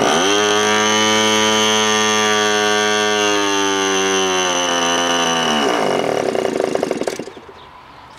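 Electric starter spinning the OS .46AX glow engine of an RC P-51D Mustang: a loud whine that rises quickly, holds steady for about five seconds, then drops in pitch and turns into a rough stutter before stopping about seven seconds in. The engine does not catch, likely because it is gummed up inside and not pulling fuel.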